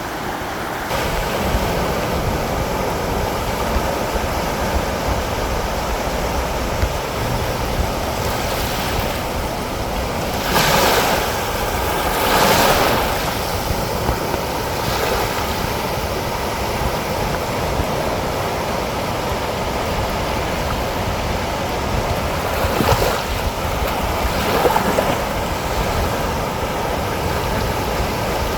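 Ocean surf washing over a volcanic lava-rock shoreline: a steady wash with several louder surges, about ten seconds in and again in the last few seconds.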